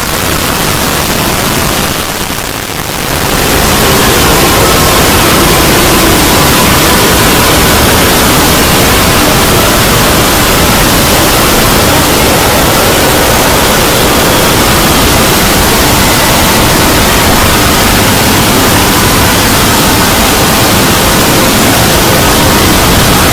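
Loud, even hiss-like noise across the whole range with faint steady tones in it: a cartoon soundtrack sped up so many times over that it has turned to noise. The level dips briefly about two to three seconds in.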